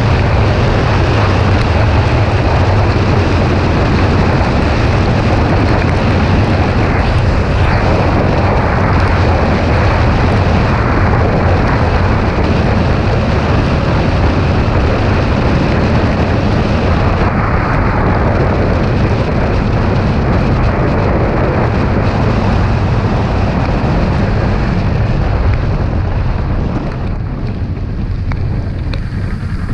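Kawasaki Ninja 400 parallel-twin engine running at a steady cruise, under heavy wind rush over the microphone. It eases off a little near the end.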